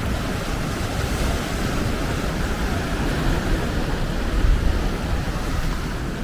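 Wind buffeting the microphone: a steady, rumbling rush that swells in a stronger gust about four and a half seconds in.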